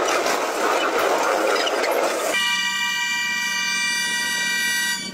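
Freight wagons rolling close by on the rails, a loud rushing rattle of wheels on track. About two seconds in it gives way to a locomotive horn sounding one long, steady chord of several tones, which cuts off abruptly just before the end.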